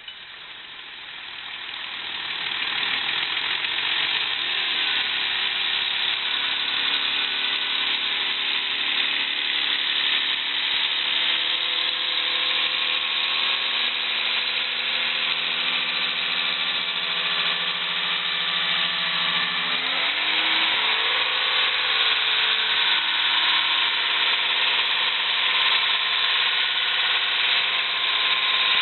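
A recently restored engine starting up and building to a steady run over the first few seconds, then running on; about two-thirds of the way through its pitch rises a little as it speeds up and holds there.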